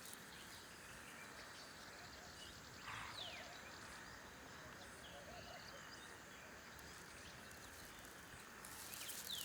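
Faint natural outdoor ambience with a few soft bird calls, including a short falling whistle about three seconds in and another near the end.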